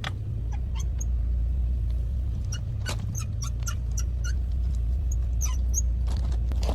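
A machine running with a steady low hum, with scattered clicks and light knocks of work over it.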